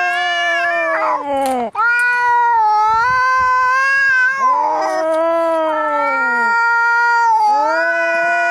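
Cats yowling as in a fight: long, drawn-out wails that rise and fall in pitch, two voices overlapping at different pitches, with only short breaks between calls.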